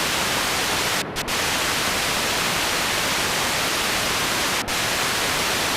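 Steady, loud static hiss with no tone or rhythm in it, broken by brief dropouts about a second in and again near the end.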